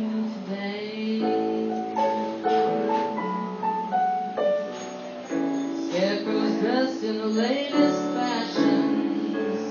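Piano playing a slow ballad melody in held, stepping notes.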